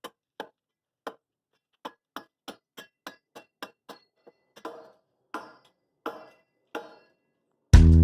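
A string of short, sharp knocks and clicks, uneven, about two or three a second. Acoustic guitar music starts suddenly near the end.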